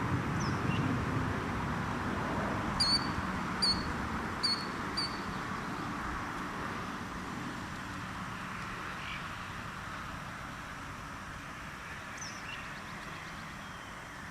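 Killdeer giving four short, sharp high calls about a second apart, a few seconds in, with a few fainter calls later, over steady background rumble.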